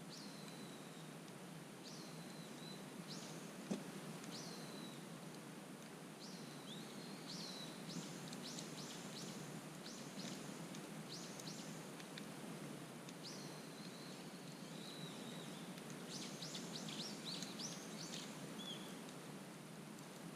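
Wood campfire crackling steadily, with one sharp pop about four seconds in, while small birds sing throughout: high whistles that slide down in pitch, repeated several times, and quick runs of chirps.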